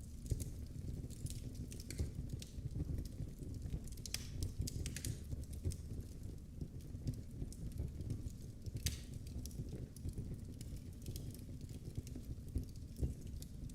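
Wood fire burning in a fireplace, with a steady low rumble of the flames and scattered crackles and pops, a few sharper ones standing out.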